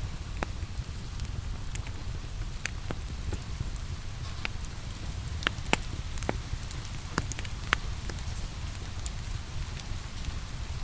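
Steady rain falling, mixed with a crackling wood fire whose sharp pops and snaps come at irregular moments, about a dozen in all.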